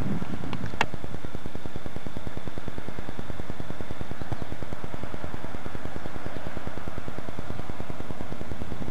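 Steady rolling rumble of a long ore train of loaded gondolas passing at a distance, with one sharp click just under a second in.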